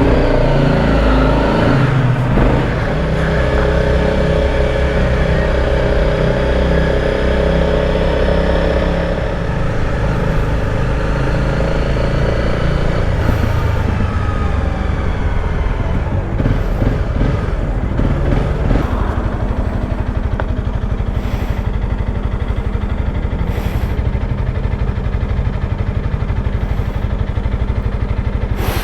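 Motorcycle engine running as the bike rides off, its pitch rising and falling several times with acceleration and gear changes, then holding steadier for the last third.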